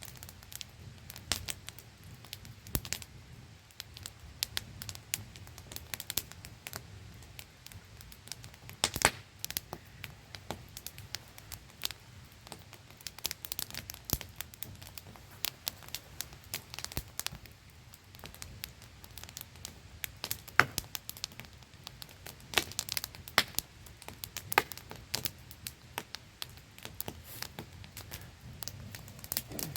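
Wood campfire crackling, with irregular sharp pops and snaps, a few of them much louder, over the steady static-like hiss of a small waterfall.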